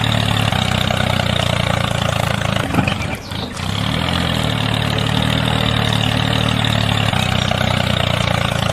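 Engine idling steadily, with a brief dip in level about three seconds in.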